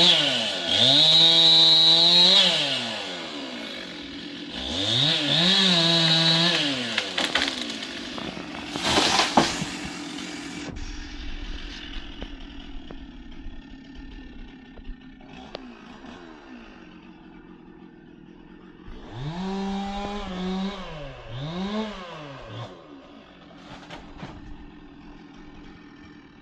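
Stihl chainsaw revving up to high speed and dropping back several times, running more steadily at lower revs in between. A sharp loud crack or knock about nine seconds in. The engine sound cuts off right at the end.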